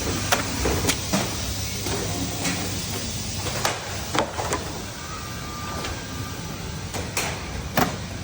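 Factory production-line machinery: a steady running hum with irregular sharp clicks and knocks from the machines.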